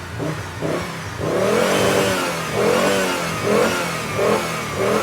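VW microbus engine being revved, the pitch rising and falling in a series of rev blips that get louder about a second in.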